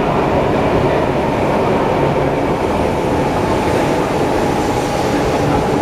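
E4 series MAX double-decker Shinkansen train pulling slowly into the platform: a steady rumble of running noise with a low hum.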